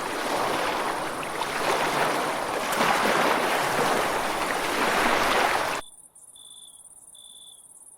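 Ocean surf washing onto the shore, a steady rushing that swells and eases. It cuts off suddenly near the end, leaving only a few short, faint high tones.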